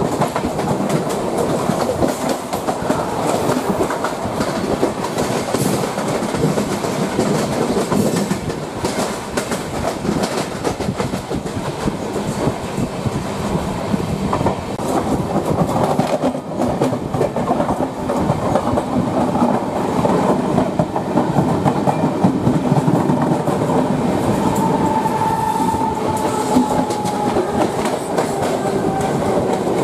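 Passenger train running at speed, heard from an open coach doorway: steady wheel clatter over the rail joints with rushing wind. A suburban electric local train runs close alongside on the next track at the start and again near the end.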